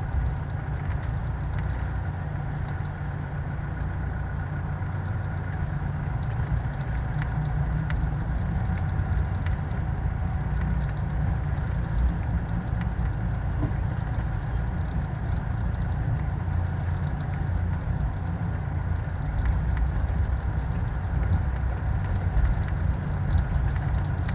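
Steady low rumble of a running vehicle, with a faint steady hum above it.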